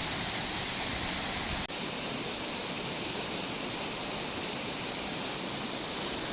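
Mahon Falls waterfall rushing steadily: an even, unbroken noise of falling water, with a brief dip about a second and a half in.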